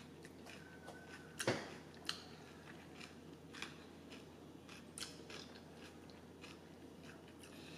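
Quiet biting and chewing of a soft tortilla wrap filled with chicken, sour cream and fresh vegetables, with a few sharp mouth clicks. The loudest comes about one and a half seconds in.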